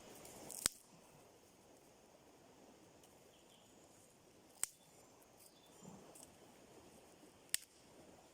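Three short, sharp snaps of sticks breaking, a few seconds apart, over a faint outdoor hush: firewood being broken up by hand.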